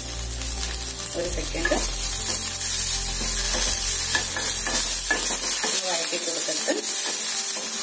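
Coriander leaves sizzling as they are stirred and sautéed in a hot pan coated with a little oil left from the tempering, with a short scrape or stroke every second or so.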